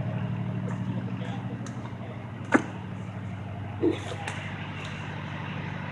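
Large diesel engine idling steadily with a low, pulsing rumble. A sharp click about two and a half seconds in and a short knock near four seconds sit on top of it.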